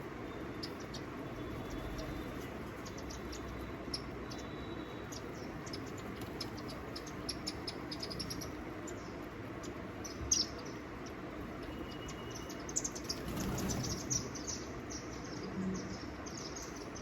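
Small birds giving many quick, high chirps and a few short thin whistles over a steady background hiss, with a brief louder low noise about thirteen seconds in.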